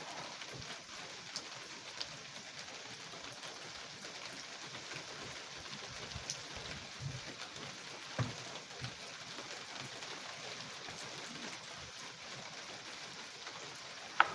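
Steady rain, with scattered drops ticking and a few soft knocks from drops landing on nearby surfaces.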